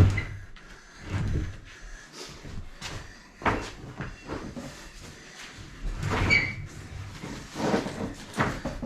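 Knocks, thuds and scraping of wood as a subfloor panel is shifted and set into place, with one short squeak about six seconds in.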